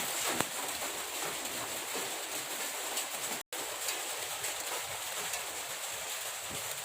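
Steady splashing and running of water as mud-caked toy cars are washed, with an even hiss and no clear single strokes. It breaks off for an instant about halfway through.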